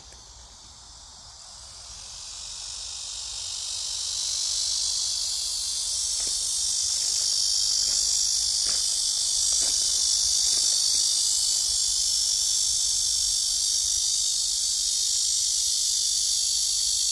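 High-pitched insect chorus that swells over the first few seconds and then holds steady and loud.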